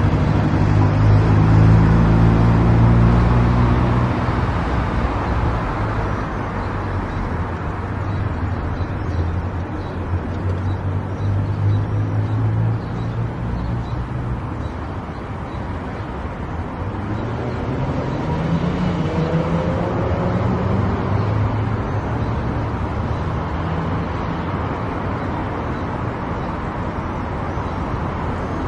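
A car driving on a road: a steady rush of tyre and road noise with a low engine hum underneath. The engine note is strongest in the first few seconds, fades, then comes back and rises in pitch about two-thirds of the way through.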